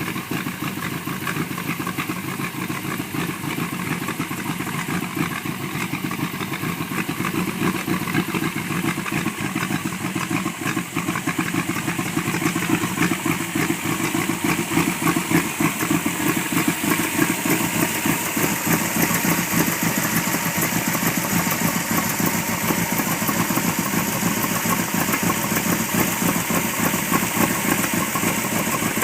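Engine of a 1936 International Harvester C-1 hot rod truck idling, a steady, rapid, even firing pulse that grows a little louder about eight seconds in.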